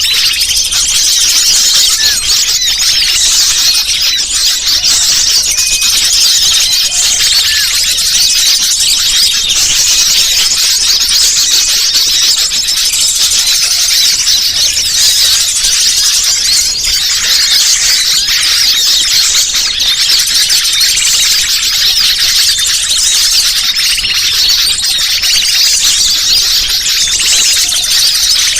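Bird-lure recording of many small birds chirping and twittering at once, a dense, unbroken, high-pitched chatter with no pauses.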